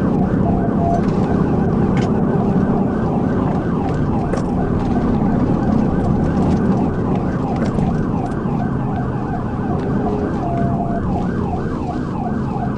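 Police car siren on a fast yelp, sweeping up and down about four times a second without a break, over the patrol car's engine and road noise at high speed during a pursuit.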